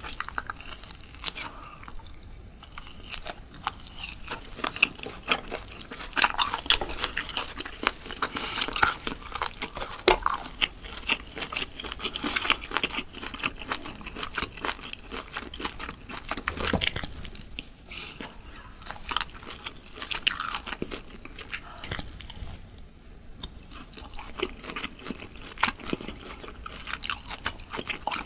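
Close-miked biting and chewing of sauced grilled meat pulled off a skewer: wet, crunchy mouth sounds with a dense run of irregular crackles and clicks and short pauses between bites.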